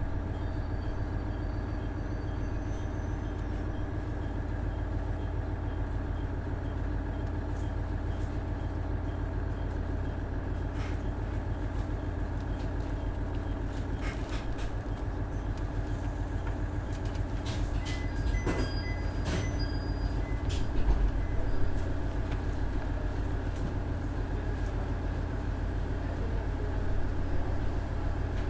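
A KiHa 110 series diesel railcar running, heard from on board: its Cummins DMF14HZA diesel engine drones steadily over a low rumble from the wheels and track. A few sharp clicks and short high tones come about two-thirds through.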